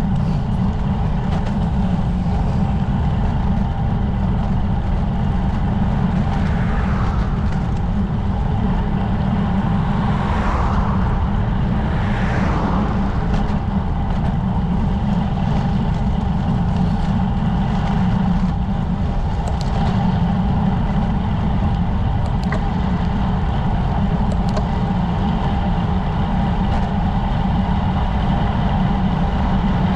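Wind rumbling steadily on the microphone of a camera carried on a moving road bike.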